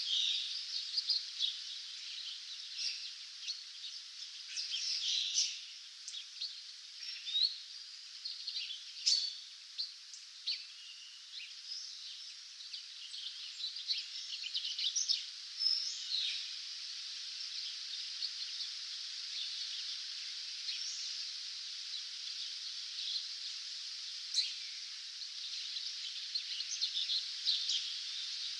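Songbirds singing at dawn: many short chirps and trills from several birds over a steady high hiss, busiest in the first half and thinning out after the middle before picking up again near the end.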